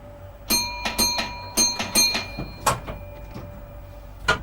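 Cab bell of a Class 508 electric train struck in short ringing strokes, two pairs about a second apart, then a single knock near the end. These are the guard's bell signals to the driver at a station stop.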